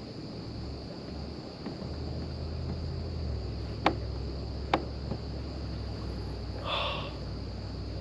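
Insects droning steadily at a high pitch, with two sharp clicks about four and five seconds in and a short rustle near the end.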